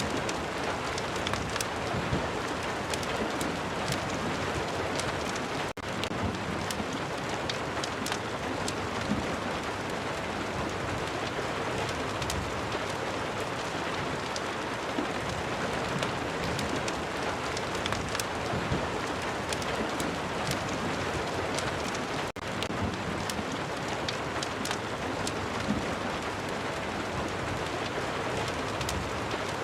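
Steady rain with a crackling fireplace: a constant hiss of rainfall scattered with many sharp ticks and pops. The sound drops out for an instant twice.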